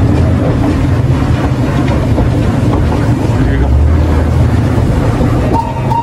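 Low rumbling running noise of the Botchan Ressha, a diesel locomotive made to look like a steam engine hauling a wooden two-axle coach, heard from inside the coach in motion. Near the end the train's whistle starts, a steady high tone.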